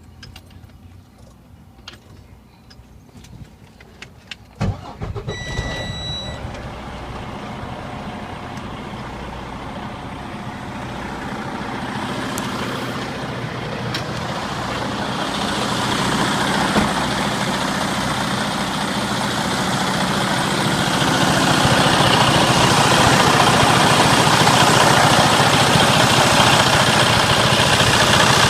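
Detroit Diesel DD15 diesel engine of a Freightliner Cascadia truck being cranked and starting about four and a half seconds in, after a few small clicks. A steady high-pitched beep sounds for about a second just after it fires. The engine then runs on, growing gradually louder.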